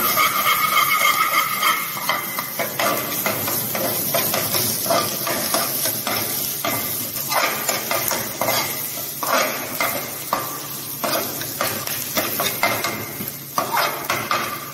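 Chopped beans and carrots sizzling as they stir-fry in hot oil in an aluminium pan, loudest in the first couple of seconds. A steel ladle stirs and scrapes against the pan in short strokes about once a second.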